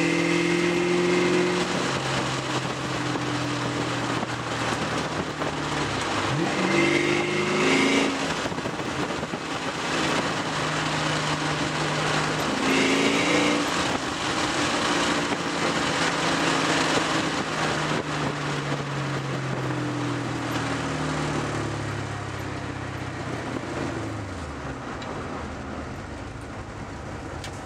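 1995 Mustang Cobra's 308 ci Ford V8, with a Steeda #19 cam and Bassani exhaust, running under way. Its note holds steady, changes pitch twice, about a quarter and about halfway through, and falls away near the end as the car slows.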